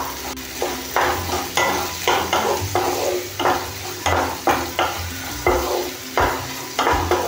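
Chopped onion sizzling as it fries in melted butter in a kadai, stirred with a wooden spatula that scrapes across the pan about twice a second.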